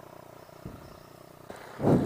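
Dirt bike engine idling with a low, steady hum, with a short louder burst of noise near the end.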